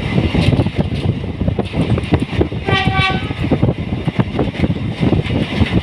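Running train's wheels rattling and clacking on the track, with a short, single horn blast about three seconds in.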